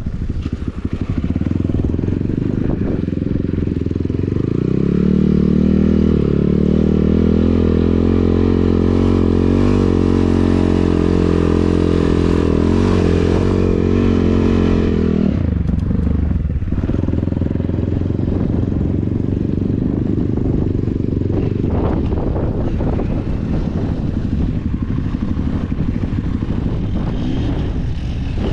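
KTM 300 two-stroke enduro motorcycle engine running. About four seconds in, the engine note climbs and holds steady for around ten seconds, then drops back abruptly midway to a lower, rougher rumble.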